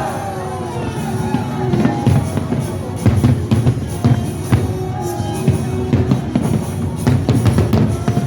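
Fireworks display: irregular sharp bangs and crackling bursts over music with a heavy drum beat and a crowd.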